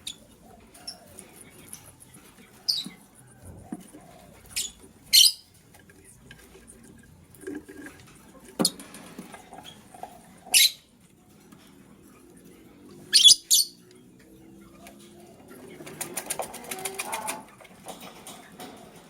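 Pet lovebirds giving short, sharp, high chirps every few seconds, some in quick pairs, with a rustling flurry of wing flapping and scrabbling about three-quarters of the way through.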